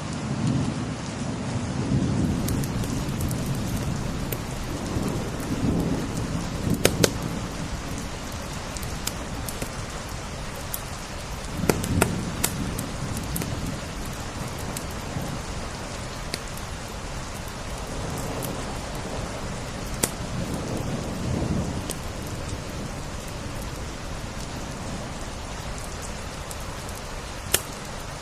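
Steady rain falling on window glass, with low rumbles swelling and fading a few times and the occasional sharp pop of a crackling wood fire.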